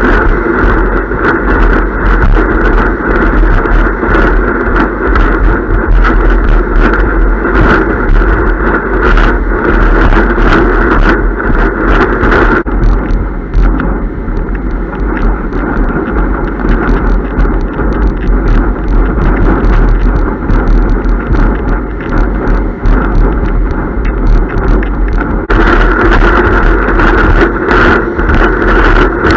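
Loud wind buffeting the microphone, with water rushing and slapping under a windsurf slalom board planing at speed, in many irregular hits. The hiss loses its top end about 13 s in and returns about 26 s in.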